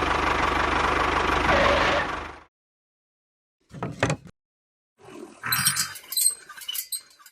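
An engine-like motor running steadily with a low hum and a hiss, which cuts off suddenly about two and a half seconds in. A brief sound follows about four seconds in, then a cluster of short tones and clicks near the end.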